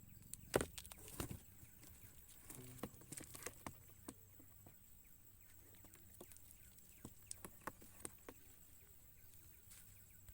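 Faint, scattered light taps and clicks, irregular and spread through the quiet, with a louder cluster about a second in and more near three to four seconds and again near seven to eight seconds.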